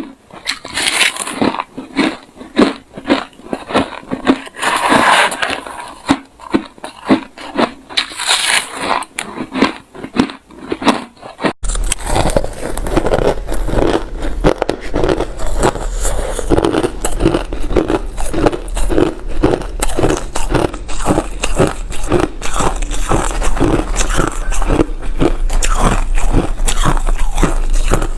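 Close-up crunching of hard refrozen crushed ice being bitten and chewed, a rapid run of sharp crunches. About twelve seconds in it cuts to denser, nearly continuous crunching over a low hum.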